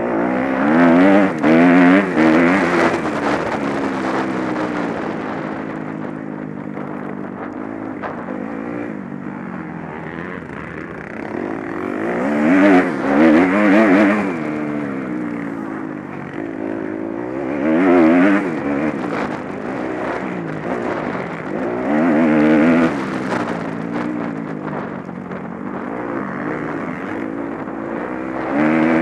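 Motocross bikes racing on the track, their engines revving up and down as they pass. The sound swells loudest as bikes go by: near the start, about halfway through, twice more later on, and again at the very end.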